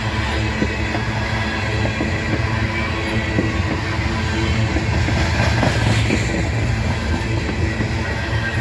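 Coal train's cars rolling past: a steady rumble of steel wheels on rail with scattered clicks as the wheels cross rail joints.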